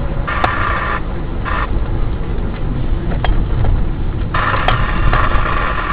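Steady engine and road rumble inside a moving car's cabin. An electronic tone beeps in three bursts, the last and longest about four and a half seconds in, with a few faint clicks between.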